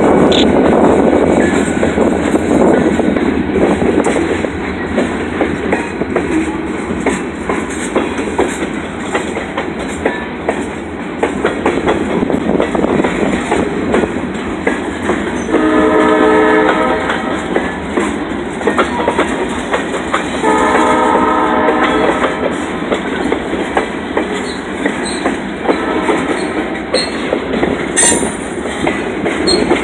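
Freight train passing at a grade crossing: a Pan Am Railways diesel locomotive goes by loudly at first, then covered hoppers and boxcars roll past with their wheels clacking over the rails. A train horn sounds in two long blasts about halfway through and starts again at the very end.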